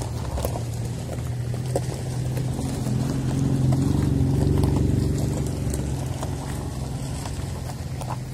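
Car engine running close by with a steady low hum, swelling to its loudest about halfway through as the black sedan comes alongside and then easing off.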